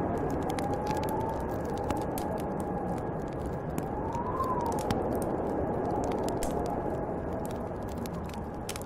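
Snowstorm wind rushing steadily and howling in a whistle that rises and falls in pitch, peaking about four seconds in, while a wood fire crackles with many sharp pops.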